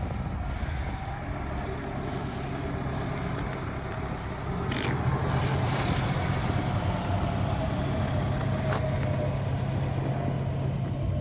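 Car engine running with a steady low hum, growing louder about four and a half seconds in, with a couple of faint clicks.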